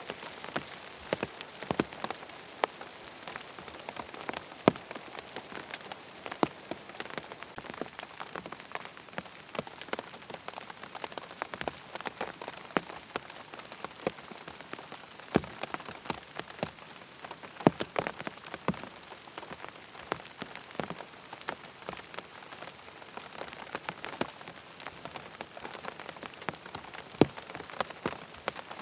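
Steady rain falling, a continuous hiss with frequent sharp, irregular ticks of heavy drops striking close by.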